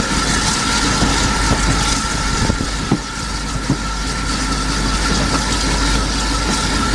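Train running on the rails: a steady rumble and hiss with a constant high tone, and a few sharp wheel clicks from rail joints near the middle.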